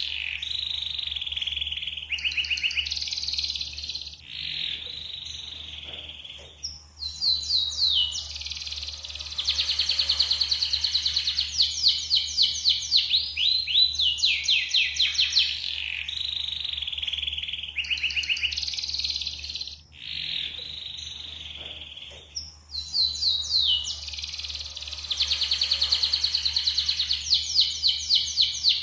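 Yellow canary singing: long phrases of rapid trills and rolls, with runs of fast repeated notes. The same pattern of phrases comes round about every seven to eight seconds, as in a looped lure recording.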